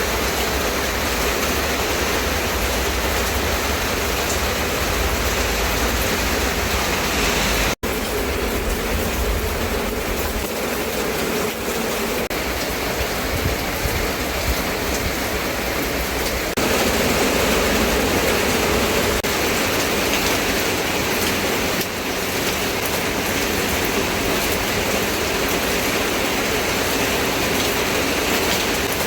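Steady, heavy rainfall, a dense even hiss. The sound drops out for a split second about eight seconds in and is a little louder from about seventeen seconds on.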